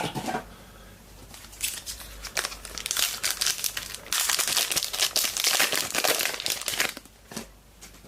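A trading card pack wrapper being torn open and crinkled by hand. It starts with a sharp click, then the crinkling builds and is heaviest over the middle of the clip before it stops.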